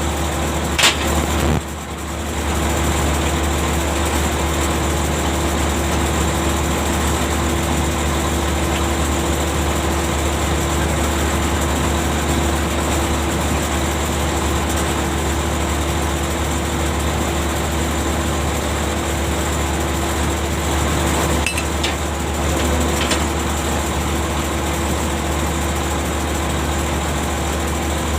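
Ship's machinery running steadily: a constant low hum with a steady whine above it. A few short knocks come about a second in and again about three-quarters of the way through.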